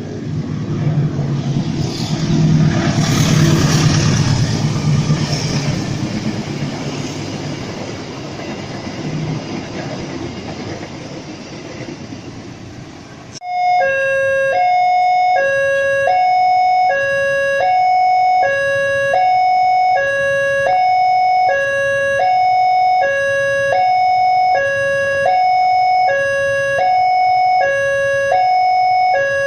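A passenger train passes, its rumble and rail noise swelling a few seconds in and then fading. About halfway through, an abrupt cut brings in a loud two-tone electronic alarm, switching back and forth between a high and a low note, each held for under a second.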